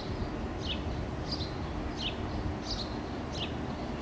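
A songbird repeating a two-note call, a short high note alternating with a falling note, about one note every two-thirds of a second, over a steady low rumble.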